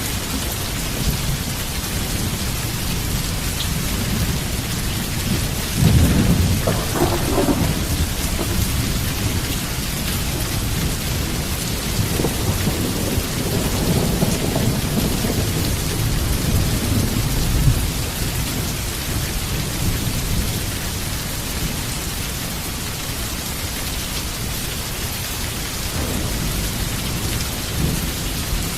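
Heavy rain falling steadily, with thunder. A sudden loud peal of thunder comes about six seconds in, and a longer low rumble rolls from about twelve to eighteen seconds in.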